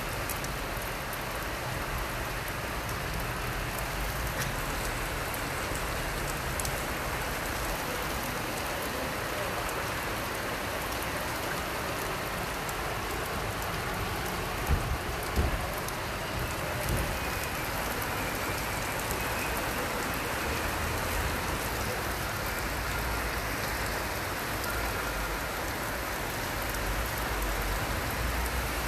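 Heavy rain falling steadily, with two brief thumps about halfway through.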